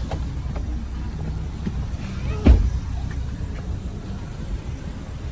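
A car driving, heard from inside the cabin: a steady low road and engine rumble, with a single sharp thump about halfway through.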